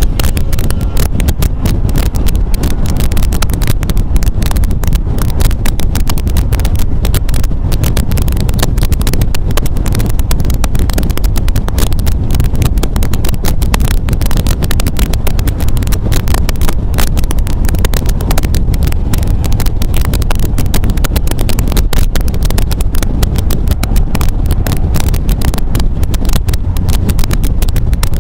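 MGA roadster under way, its four-cylinder engine running steadily with road noise, and wind buffeting the microphone.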